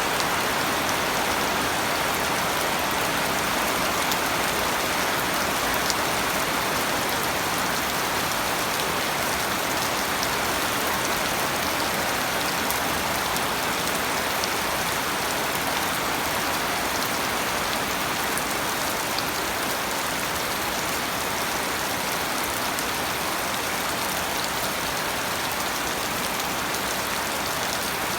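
Steady rain falling, with the even hiss of a downpour and scattered small drop ticks.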